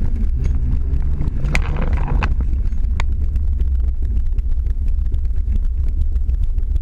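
Zastava 750's rear-mounted 850 cc four-cylinder engine, fitted with a special camshaft and a 30 mm carburettor, heard from inside the cabin running at low revs under a heavy low rumble. A few sharp clicks come in the first three seconds.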